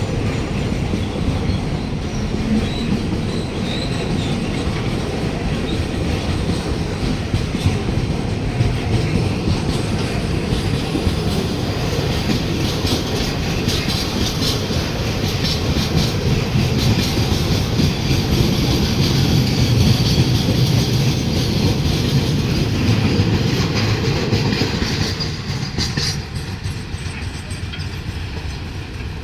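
Freight train wagons rolling past close by: steady low rumble with wheels clattering over the rail joints and some metallic screech. It grows loudest past the middle and drops off near the end as the train passes.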